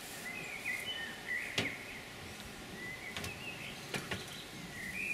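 Small birds chirping on and off, with three sharp clicks about a second and a half, three and four seconds in.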